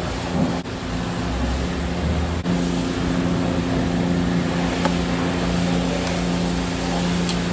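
Self-serve car wash equipment running: a steady machine hum of motors and pumps over a constant hiss, with a few faint clicks.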